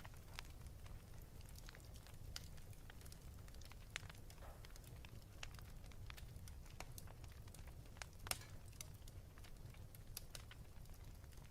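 Wood fire burning in a fireplace, crackling with irregular small pops over a low steady rumble; one sharper snap comes about eight seconds in.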